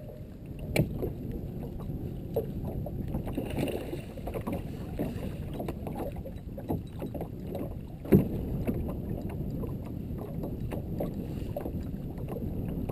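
Water sloshing around a small fishing boat with scattered small knocks, and one louder thump about eight seconds in.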